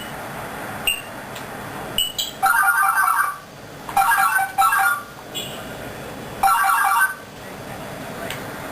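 African grey parrot mimicking an electronic phone ringtone: a series of warbling ring bursts at uneven intervals, after a few short high whistled chirps.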